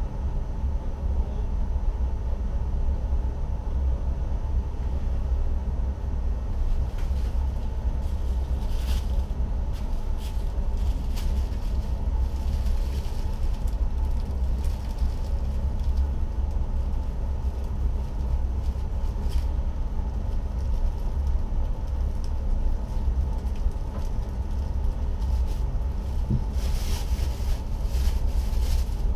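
Steady low rumble and hum inside the driver's cab of an NS ICM electric multiple-unit train, with a few faint clicks scattered through.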